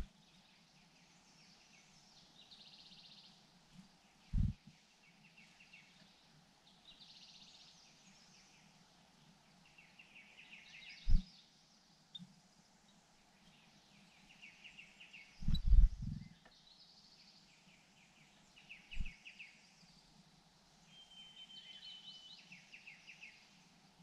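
Short bursts of high, rapid chittering bird calls, repeated every second or two, with a brief steady whistled note near the end. A few dull low thumps break in, the loudest about 16 seconds in.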